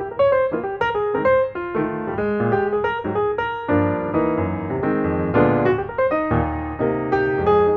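Background music: a piano playing a melody over chords, its notes struck in quick succession.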